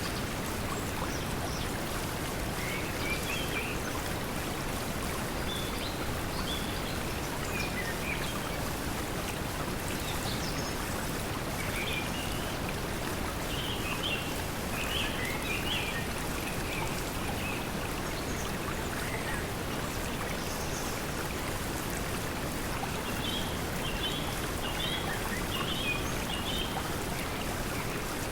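Steady pink noise mixed with flowing water, with short bird chirps scattered over it in small clusters.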